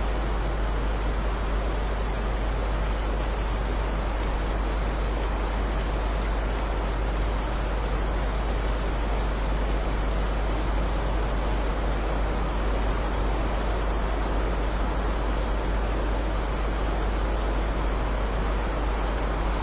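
Heavy rain falling in a steady, even hiss, with a constant low rumble underneath.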